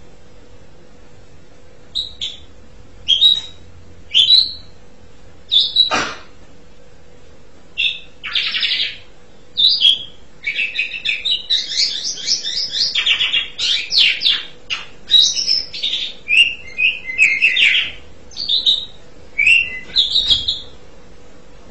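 Asian pied starling (jalak suren) singing: a few separate short whistled calls, then a long rapid run of varied chattering and whistling notes starting about halfway through. A faint steady hum lies underneath.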